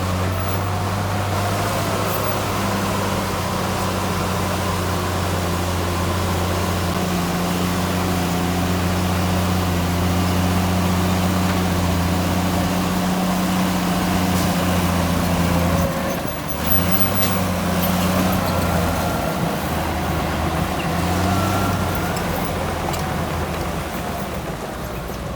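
Heavy earthmoving machine's diesel engine running steadily under load, its note dipping and wavering about two-thirds of the way through.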